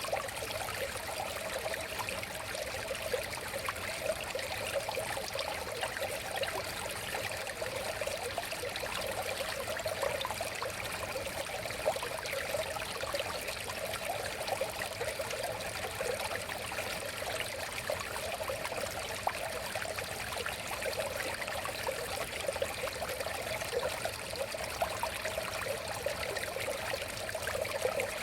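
River water flowing steadily, with a constant rushing and many small bubbling flickers.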